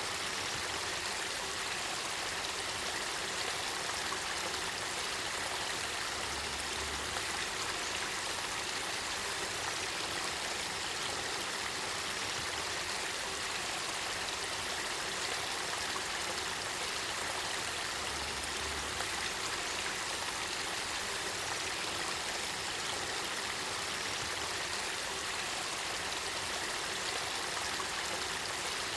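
Spring-fed river water flowing and trickling in a steady, even rush.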